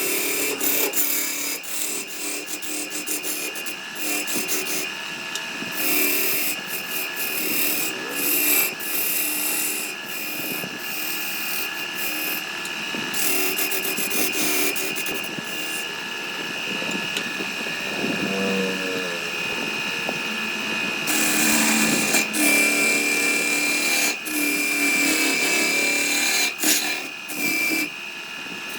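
A power tool working wood: a steady motor whine under rasping and rubbing of the tool against the wood, with the load coming and going.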